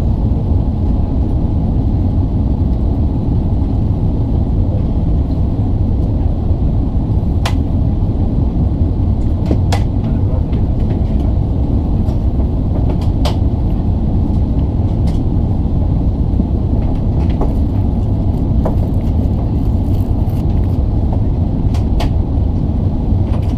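Steady low rumble of an Airbus A380-861's cabin, engine and airframe noise heard from a window seat, with a few faint scattered clicks.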